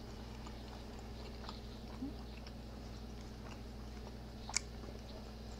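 Faint close-up chewing of a mouthful of deep-fried, Hot Cheeto-crusted burrito, with scattered small clicks and one sharp click about four and a half seconds in, over a steady low hum.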